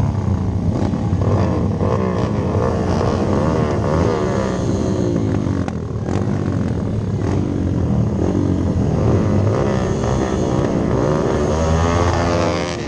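Rally-built Hero Impulse dirt bike's single-cylinder engine under hard riding, its pitch rising and falling again and again every second or two as the throttle is opened and closed.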